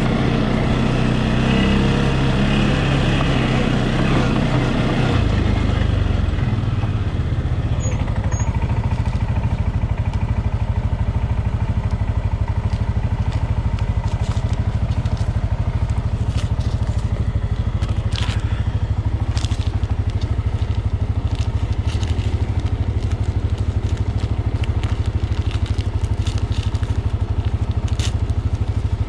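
ATV engine running, its pitch rising and falling for the first few seconds, then settling into a steady low drone. Scattered short clicks and crackles sound over it.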